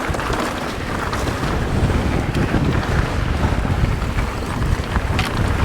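Strong wind buffeting a GoPro action camera's microphone: a heavy, unbroken low rumble over an even hiss, with a short click about five seconds in.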